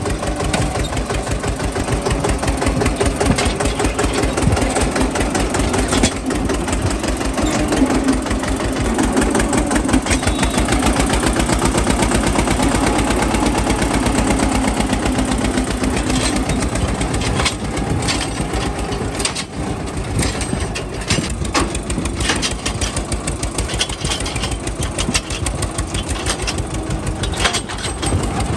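Eicher 242 tractor's diesel engine running with an even firing beat. Scattered knocks and clatter come in over it from about two-thirds of the way in.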